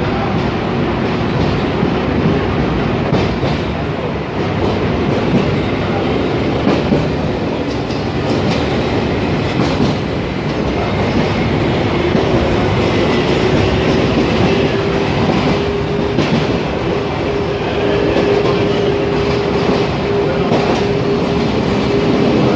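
Toshiba electric multiple unit running, heard from inside the carriage: steady rumble of wheels on the rails with clickety-clack over rail joints. From about halfway a steady whine joins in and rises slightly.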